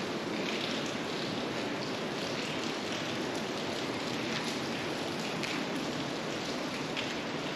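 Water dripping and falling from a sandstone rock overhang: a steady rain-like patter.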